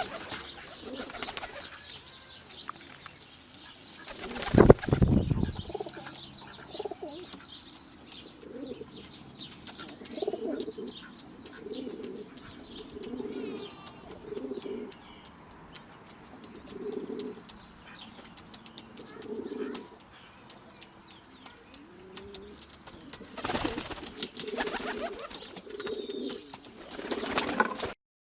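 Pigeon-like birds cooing in short, low, repeated calls, with a loud brief burst of noise about five seconds in and a rapid flutter of wing-flapping near the end.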